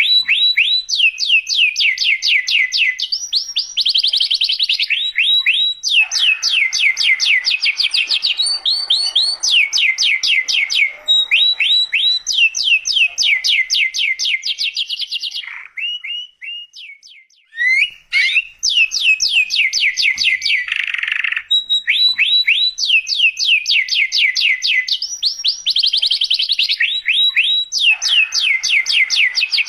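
Domestic canary singing a long, loud song of rapid trills, each a fast run of repeated falling notes, with a short pause about two-thirds of the way through.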